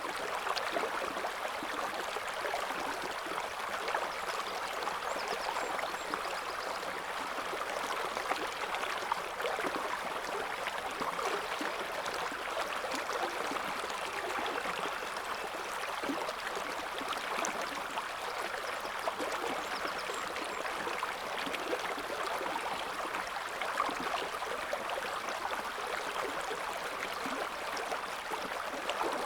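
River water flowing in a steady, continuous rush, flecked with small bubbling and splashing sounds.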